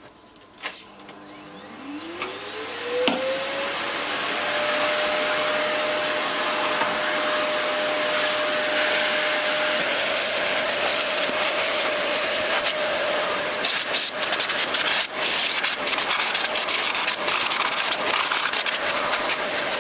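Vacuum cleaner switched on, its motor spinning up with a rising whine over the first few seconds and then running steadily, sucking dust out of an amplifier's heat sink. Scattered clicks and ticks come through in the second half.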